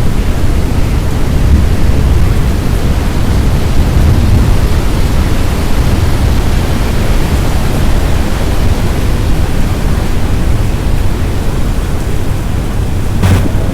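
Loud, steady storm noise of wind and rain, heaviest in the low rumble, with a brief knock near the end.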